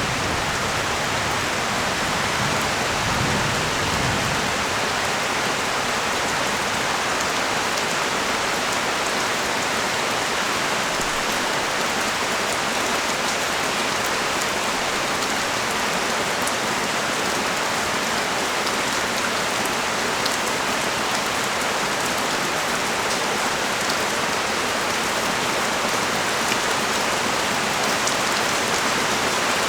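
Heavy rain pouring steadily onto the street and surfaces, with the low rumble of thunder dying away in the first few seconds.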